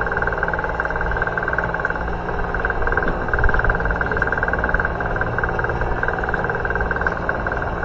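Boat engine running steadily, a constant rapid-pulsing drone over a low rumble.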